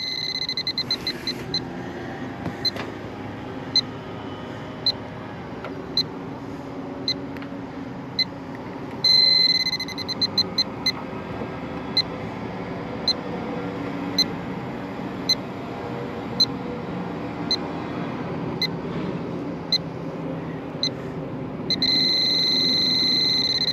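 Electronic refrigerant leak detector ticking with a short high beep about once a second, speeding up into rapid beeping around nine seconds in and again near the end as it picks up refrigerant from a leak. A steady machine hum runs underneath.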